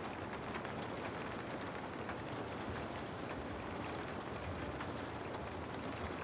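Steady rainfall: a constant hiss of rain with many small, scattered drop ticks.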